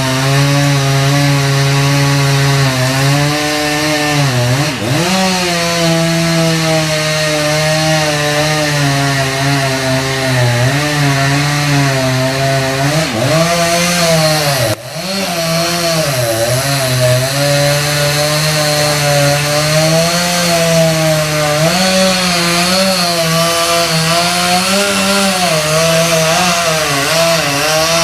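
Chainsaw running at high revs while cutting wood, its pitch wavering and sagging under load. The pitch dips sharply about five seconds in and again around the middle, where the sound also briefly drops.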